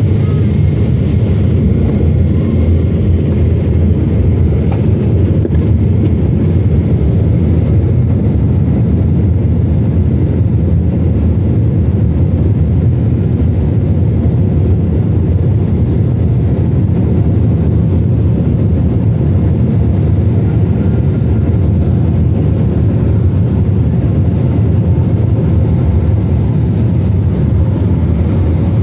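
Steady low rumble inside the cabin of a Boeing 777-300ER while the airliner is moving, with an even level and no distinct thumps.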